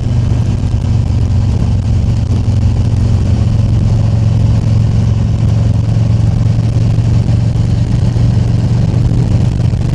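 Harley-Davidson Tri Glide Ultra's Milwaukee-Eight V-twin running steadily under way, a constant low drone with wind and road noise over it.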